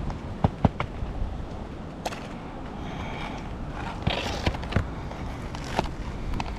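Wind buffeting the microphone, with a few sharp knocks and clicks of hand tools being worked on roof shingles, the loudest two close together about half a second in.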